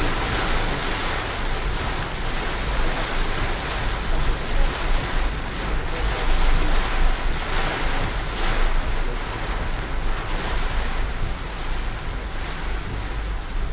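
Steady rushing noise of heavy rain and tyres on a flooded road, heard from a car driving through a downpour, with a deep rumble underneath.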